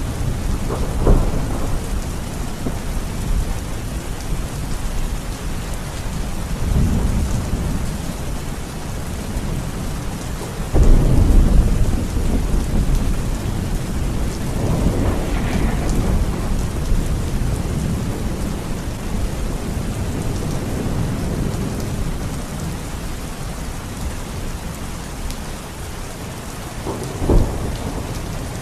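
Steady rain with thunder rumbling through it: several deep rolls, the loudest about eleven seconds in, and shorter, sharper claps about a second in and near the end.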